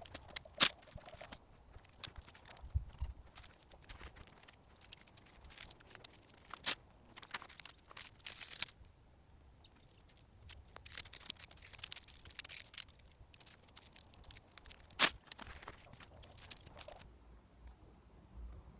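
Dry dead strawberry leaves rustling and crackling as they are pulled and snapped off the plants by hand, in irregular bursts with a few sharp snaps.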